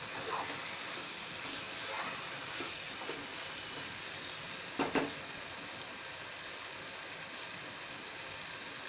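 Potato pieces in onion-tomato masala sizzling as they fry in a non-stick pan: a steady crackling hiss, with a few light clicks and one sharper knock about five seconds in.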